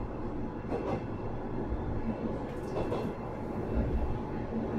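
Cabin running noise of a Sanriku Railway 36-700 series diesel railcar under way: a steady rumble of the engine and of the wheels on the rails, with a few dull thumps from the track.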